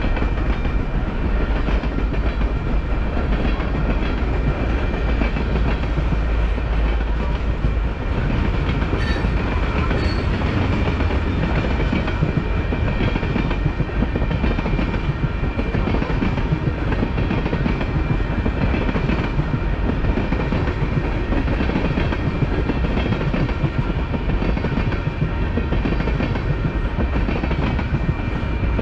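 Freight train rolling past, a steady rumble and clatter of rail cars on the track; the heaviest low rumble eases about eight seconds in.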